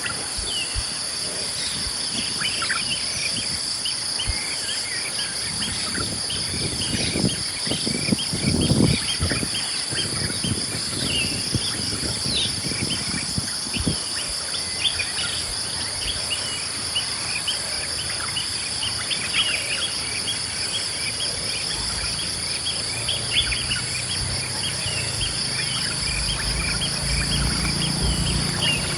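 Early-morning outdoor ambience: a steady, high-pitched insect chorus with many short bird chirps over it. About eight seconds in there is a brief low rumble, and a low hum builds over the last few seconds.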